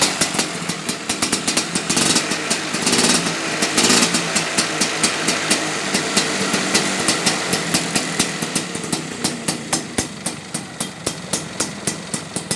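Vespa scooter's two-stroke engine running just after starting, blipped a few times in the first four seconds and then settling into a lumpy idle with regular pops about two to three a second, through an exhaust with a jingling, ringing note (kemrincing).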